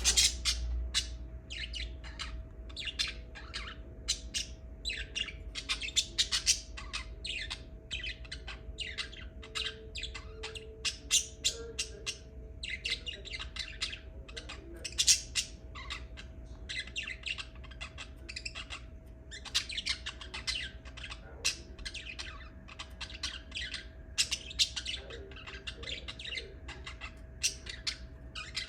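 Lovebirds chattering: a dense, continuous run of rapid, high-pitched chirps and squawks.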